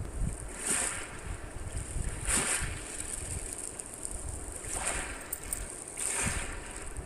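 Wind rumbling on the microphone over a steady high hiss, with a rushing wash that swells and fades four times.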